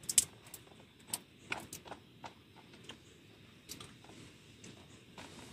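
Irregular light clicks and taps, the loudest a sharp pair about a quarter second in, then scattered single ticks.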